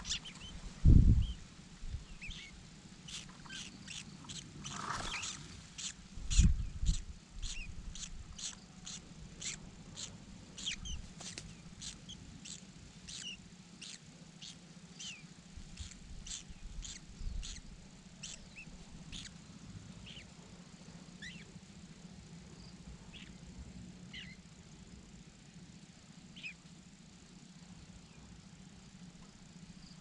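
Birds chirping: short, high chirps repeating about twice a second for most of the first twenty seconds, with fainter scattered cheeps, and two low thumps in the first seven seconds.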